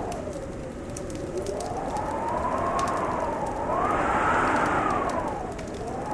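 Wind howling in slow swells that rise and fall in pitch, over the scattered pops and crackles of a wood fire.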